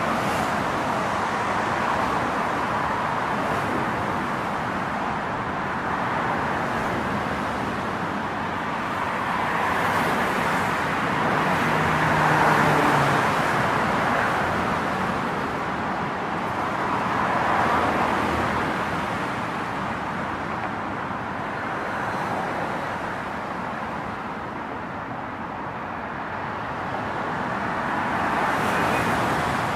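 Road traffic: steady tyre and engine noise with several vehicles passing, the loudest about twelve seconds in, where an engine's low hum briefly stands out.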